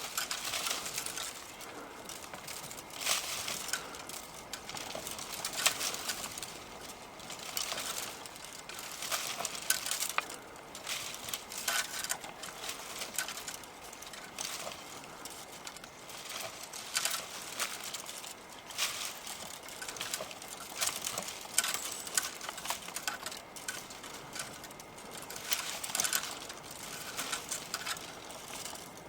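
A hiker's footsteps on a trail, one step roughly every second.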